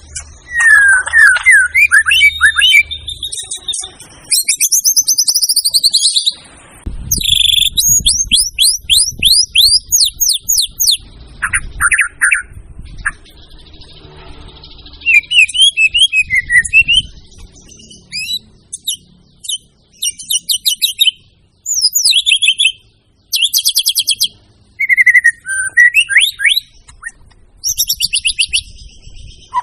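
White-rumped shama (murai batu) singing loudly and continuously: a rapid run of varied phrases, fast downward-sweeping whistles, quick trills and high buzzy notes, in bursts with brief pauses.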